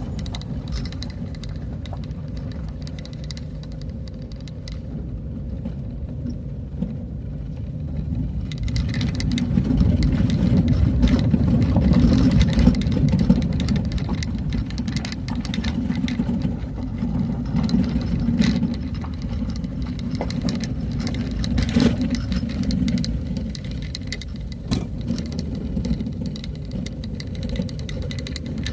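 Motor vehicle driving: a steady low engine and road rumble with frequent rattles and knocks, growing louder for a stretch in the middle.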